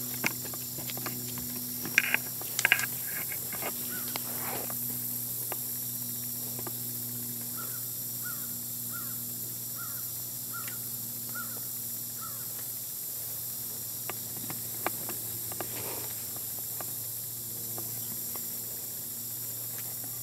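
A bird calls a run of about eight short, evenly spaced chirps, roughly one and a half a second, over a steady hiss. Before that, sharp snaps and rustles come about two to three seconds in; these are the loudest sounds.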